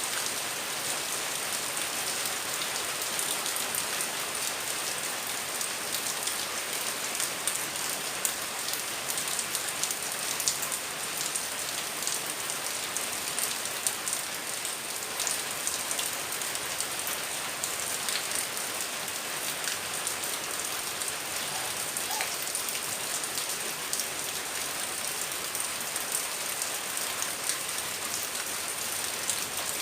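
Heavy rain falling steadily, a dense even hiss with many sharp drop ticks and an occasional louder splat.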